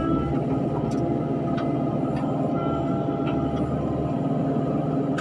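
Excavator diesel engine and hydraulics running steadily, with a few faint metallic clicks.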